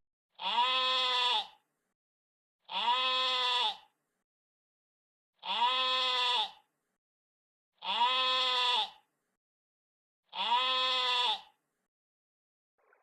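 A sheep bleating, five times: each bleat lasts about a second and rises and falls in pitch, and the five are nearly identical, separated by silence.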